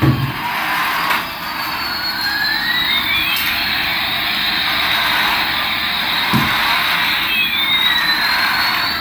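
Electronic toy sound effect from a small speaker: a jet-like hiss with a whistling tone that sweeps down and back up over about five seconds, then begins to fall again. A short low thump comes right at the start and another about six seconds in.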